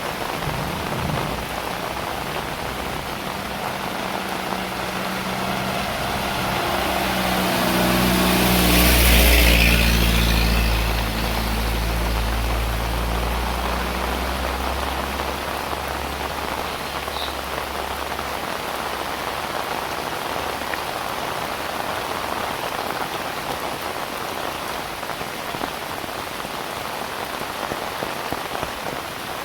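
Steady heavy rain falling throughout. A motor vehicle passes on a wet road: its engine drone and tyre hiss swell to a peak about a third of the way in, then fade out over the next several seconds.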